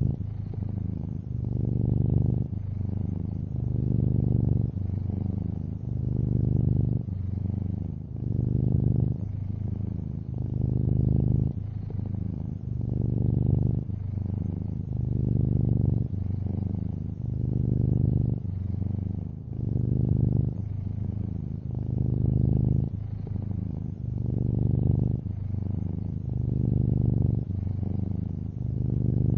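Long-haired orange tabby cat purring close to the microphone: a steady low rumble that swells and eases with each breath, about once every two seconds.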